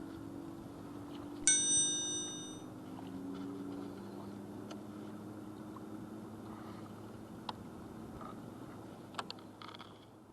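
A single bell-like metallic ring about a second and a half in, fading over about a second, over a steady low hum, with a few sharp clicks later on.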